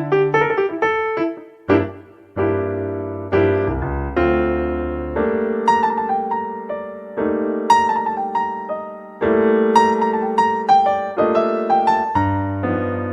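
Cheerful background music led by piano or electric piano, with notes and chords struck in a lively rhythm.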